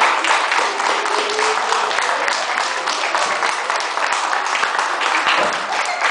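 Audience applauding, many hands clapping steadily, with some voices mixed in.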